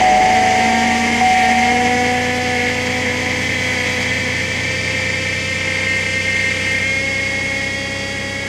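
2008 Pontiac Grand Prix engine idling just after a cold start at about 0 °F. A high whine sits over it, strongest in the first couple of seconds, which the owner is pretty sure is the power steering pump. The overall level eases down gradually as the idle settles.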